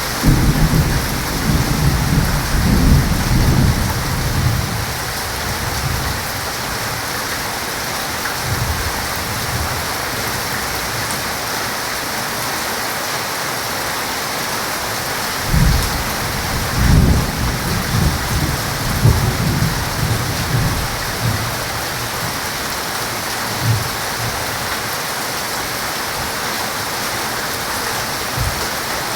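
Heavy rain falling steadily, with rolling thunder rumbling at the start and again about halfway through, and a short low thump of thunder a little later.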